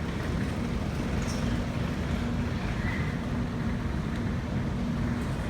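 Sydney Trains Waratah electric train standing at the platform with its doors open, giving a steady hum and low rumble from its on-board equipment.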